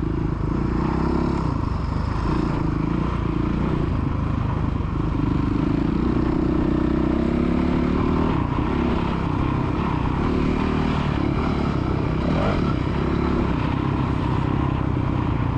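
Dirt bike engine running on a motocross track, its pitch rising and falling as the throttle is worked.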